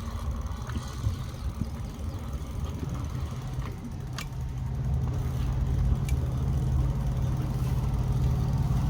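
Diesel truck engine idling with a steady low hum that grows louder from about halfway through, over a low rumble.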